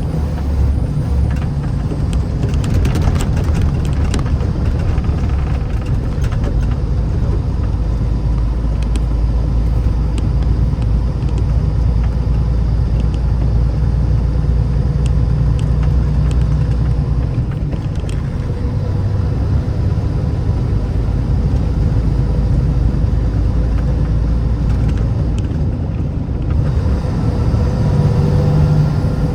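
Road vehicle driving: a steady low rumble of engine and tyres, with a few light clicks about three seconds in.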